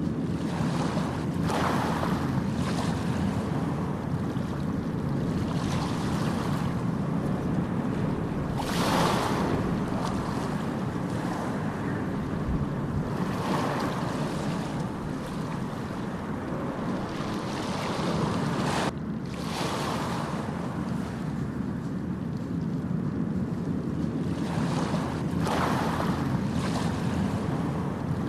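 Ocean surf: a steady low rumble with waves washing in every few seconds, and wind buffeting the microphone. The sound breaks off abruptly and resumes about two-thirds of the way through.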